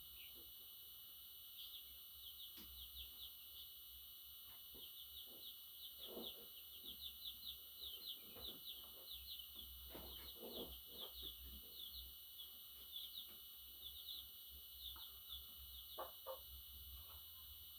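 Budgerigar chirping and chattering in rapid clusters of short, high chirps, busiest in the middle, over a faint steady high-pitched tone.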